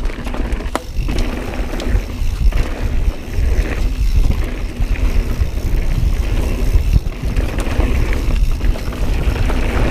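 Mountain bike riding fast down a dirt jump trail: tyres rolling over dirt and rocks, with scattered rattles and clicks from the bike. Heavy wind rumble buffets the action-camera microphone throughout.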